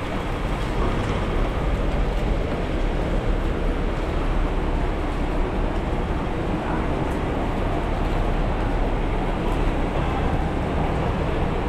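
Heavy rain falling steadily as a continuous, even rush of noise.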